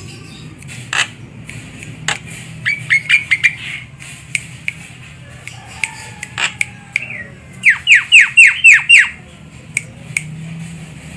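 Javan myna calling, with harsh squawks and short chattering notes. About three seconds in there is a quick run of short notes, and around eight seconds in comes the loudest part: a series of about six notes that each sweep downward.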